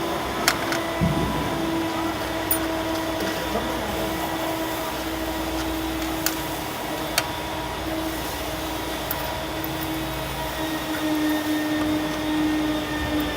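A steady machine hum with a constant pitch, with a few sharp clicks and knocks scattered through it.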